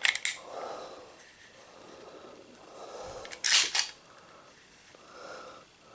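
Metal clicks and a short sliding rasp about three and a half seconds in, from a Smith & Wesson Model 1006 pistol being handled as its magazine release is worked.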